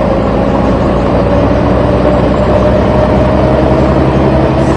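Truck engine running steadily, a loud even drone whose pitch creeps up slightly.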